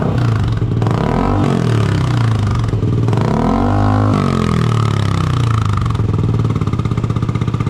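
Motorcycle engine idling through an aftermarket carbon muffler with no silencer insert, blipped twice: a short rev about a second in and a longer one about three seconds in, each falling back to a steady idle. The open exhaust note is crisp.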